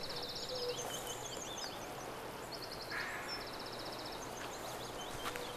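Birds chirping in an orchard, with several short, fast rattling trills over a steady background hiss.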